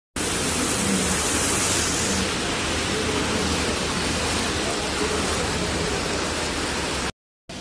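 Steady hiss of heavy rain and rushing floodwater, brighter for the first two seconds or so.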